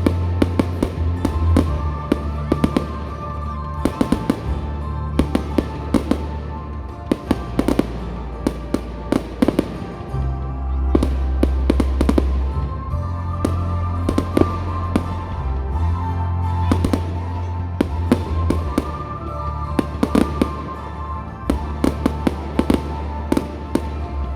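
Fireworks going off, with frequent sharp bangs and crackles scattered throughout, over music with a heavy, sustained bass.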